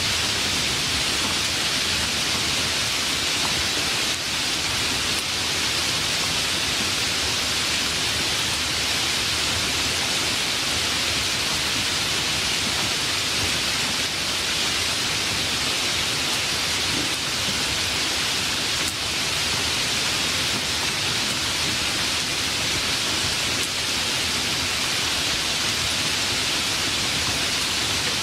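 Steady rain from a rainstorm, falling as an even hiss without thunder.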